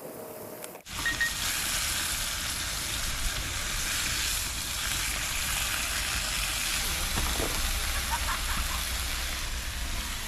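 Food sizzling as it fries in a pan, a steady hiss that starts abruptly about a second in.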